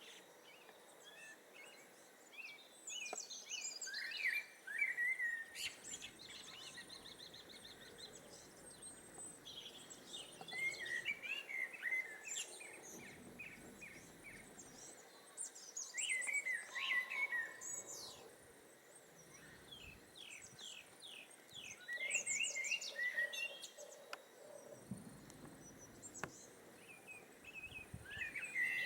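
Common blackbird singing: warbled phrases that end in a high, squeaky twitter, repeated about every six seconds with pauses between.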